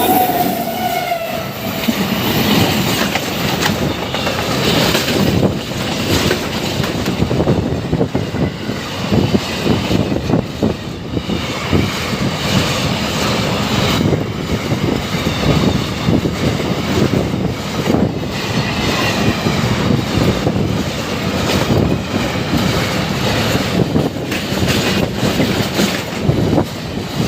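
Freight train of wagons carrying oxygen tanker trucks running past, its wheels clacking steadily over the rail joints for the whole stretch.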